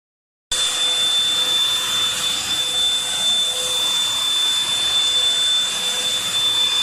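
Vacuum cleaner motor running with a steady high whine over a rush of air, starting abruptly about half a second in.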